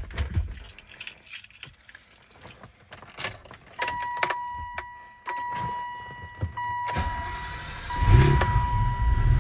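Keys jingling and clicking in the ignition of a 1988 BMW 535is, then a steady high warning tone from the dash. About eight seconds in, the starter cranks and the straight-six catches on a cold start, settling into a steady idle.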